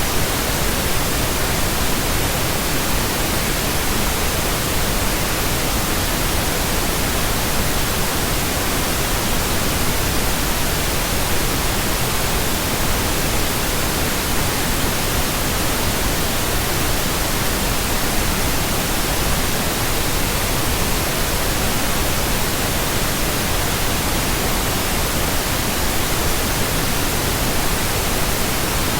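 Steady synthetic pink noise: an even, unbroken hiss with no change in level or character.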